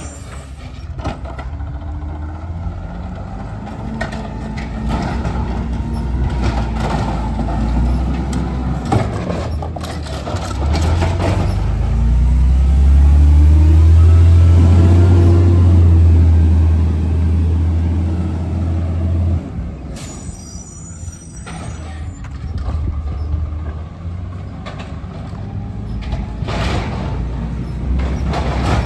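Garbage truck's diesel engine running and revving up, loudest about halfway through, then dropping off abruptly. Brief high brake squeals and hissing come near the start and again just after the engine drops.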